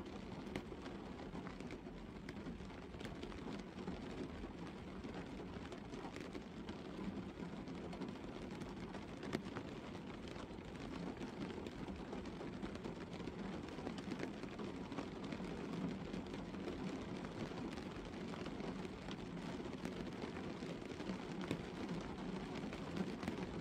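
Steady light rain falling on a car, heard from inside the cabin: an even hiss with many small drop ticks on the roof and windscreen.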